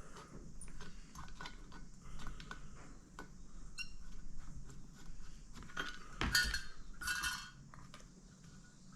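Small metal parts of a Stromberg carburettor and hand tools clinking on the bench as the carburettor is taken apart: scattered light clicks and taps, with a louder clatter about six seconds in.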